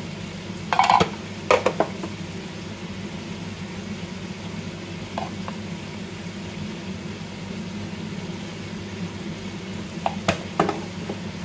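Chicken frying in a pot over a gas burner, a steady low sizzle and hum. A plastic spice container is knocked twice about a second in, and clacks a few times near the end as it is put down.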